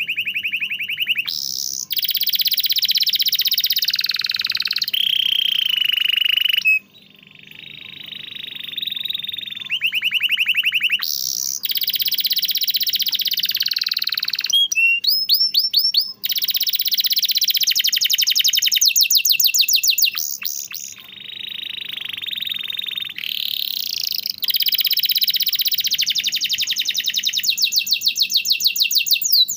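Domestic canary singing a long, nearly unbroken song of rolls and trills: fast runs of repeated notes, some sliding down in pitch, changing phrase every few seconds, with a short break about seven seconds in.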